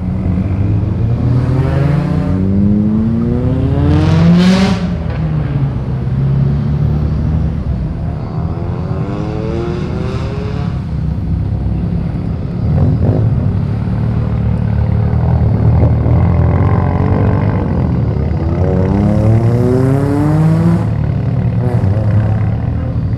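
Car engines accelerating away one after another over a steady idling rumble, each pull a rising engine pitch; the loudest pull comes about four seconds in, with further ones around ten and twenty seconds in.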